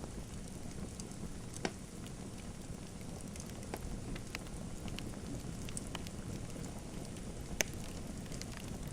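Wood fire in a fireplace crackling: a steady low rumble of burning with scattered sharp pops, the two loudest about a second and a half in and near the end.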